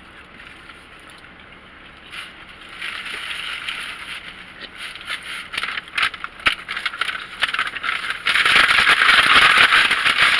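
Paper food bags and wrappers rustling and crinkling as takeout food is handled, with small crackles throughout, getting louder and loudest near the end.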